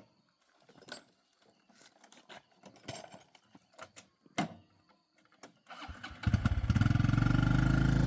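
A few light clicks and knocks, then about six seconds in a motorbike engine starts and settles into a steady idle.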